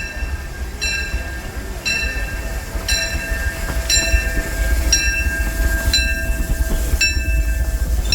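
Steam train's bell ringing steadily, about one strike a second, each strike ringing on briefly, over the low rumble of the Disneyland Railroad train.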